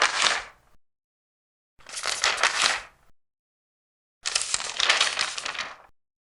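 Large paper pages being turned one after another, each turn a crisp papery rustle lasting about a second. There are three turns: one trailing off just under a second in, one about two seconds in, and a longer one from about four to six seconds.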